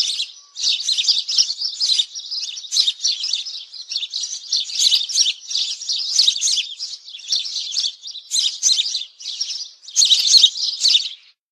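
Small birds chirping and twittering rapidly and continuously, in dense high-pitched runs of chirps with short gaps, stopping just before the end.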